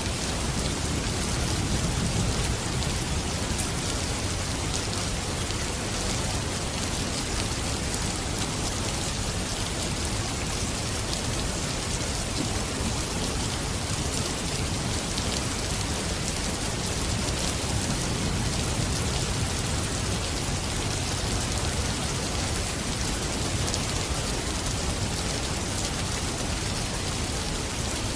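Steady rain falling, a dense even hiss of drops, with a low rumble swelling briefly about two seconds in and again about two-thirds of the way through.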